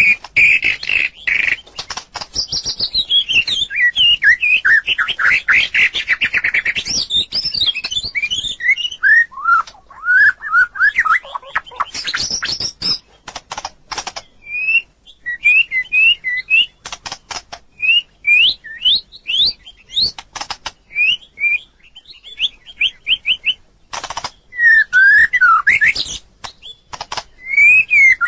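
White-rumped shama singing: a varied run of whistled phrases and rapid note sequences, with a string of short, repeated upswept notes in the middle and many sharp clicks among them.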